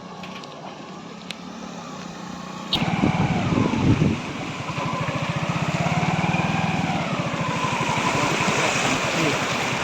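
A small motor engine comes in suddenly about three seconds in and keeps running steadily with a fast even beat, its pitch wavering up and down a little.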